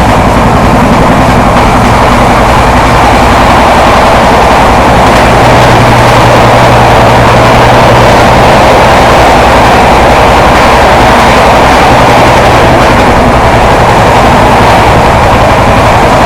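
Express train running close by on the rails: a loud, steady rumble of wheels and coaches with a low steady hum under it, starting abruptly just before and running on unchanged.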